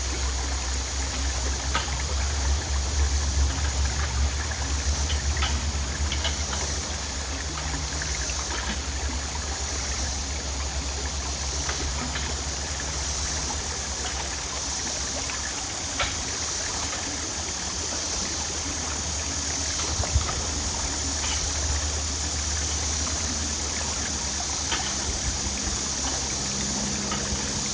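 Water running steadily through a cleared culvert, an even rushing flow with a low rumble underneath.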